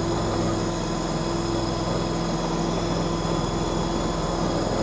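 KYMRON YTL 23 stand-on mini skid steer's engine running steadily at raised throttle as the machine drives off, a constant even drone.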